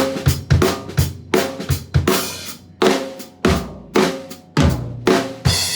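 Drum kit playing a syncopated hit pattern: a string of accented strikes on bass drum, snare and crash cymbals. The final crash near the end rings out.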